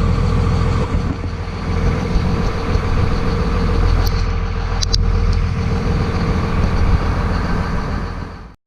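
A 5.9-litre 24-valve Cummins turbo diesel running steadily through a 4-inch MBRP turbo-back exhaust, with a few short sharp ticks about four to five seconds in. The sound cuts off abruptly near the end.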